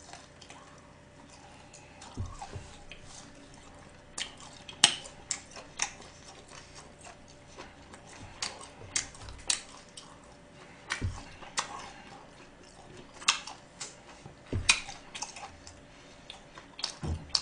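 A man chewing a mouthful of food, with wet smacks and clicks coming at irregular intervals.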